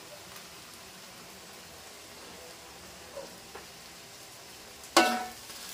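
Faint, steady sizzle of noodles frying in a pan. About five seconds in comes one loud, sharp clatter.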